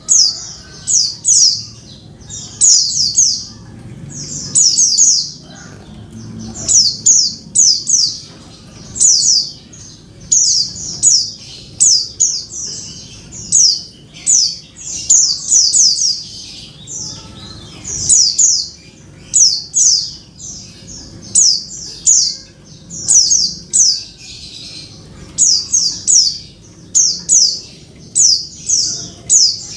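Female white-eye (pleci) calling to a male: short, high, sharp notes in quick clusters of two to four, repeated about once a second.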